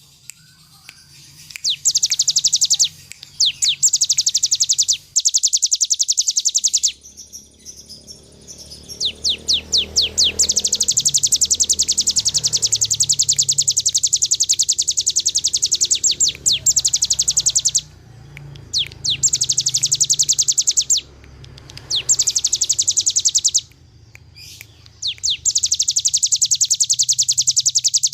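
Ciblek gunung (hill prinia) singing in its 'ngebren' style: very fast, drill-like trills of high notes, each lasting a few seconds with short breaks between, the longest about six seconds near the middle. A faint low hum runs underneath.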